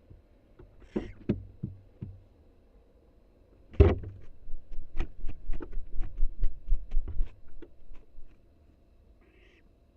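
Barn owl nestling flapping its wings inside a nest box. A few knocks, then a strong thump about four seconds in, followed by a rapid run of wingbeats knocking against the box, about four a second, for nearly four seconds. A short hissing call comes near the end.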